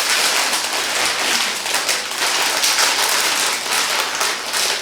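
Plastic instant-noodle packet crinkling and rustling as it is opened and handled, a dense crackle.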